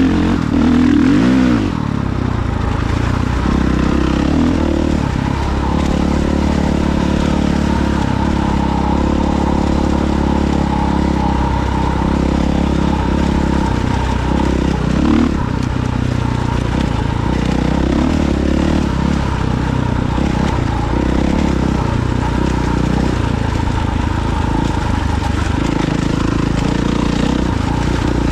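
Engine of an off-road vehicle running as it is ridden, its pitch rising and falling with the throttle, with a glide in pitch about a second in.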